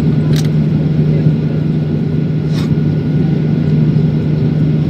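Steady low drone of a vehicle engine with a strong hum, and two brief high clicks, one early and one a little past the middle.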